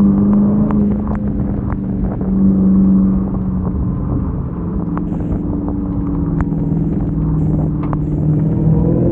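Dodge Hellcat Redeye's supercharged 6.2-litre Hemi V8 running at low speed in slow traffic, a steady low drone whose pitch shifts a few times as the car creeps along. It is heard from a phone mounted outside on the windshield, with scattered sharp ticks from rain striking the phone.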